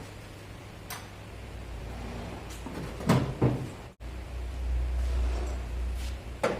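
A few sharp knocks and clatters, with a louder pair about halfway through, over a low steady hum that grows louder in the second half.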